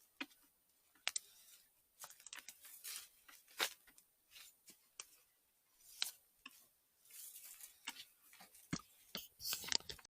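Irregular crunching, scraping and clicking of a knife cutting and trimming fresh milk-cap mushrooms, with short rasping cuts and sharp clicks.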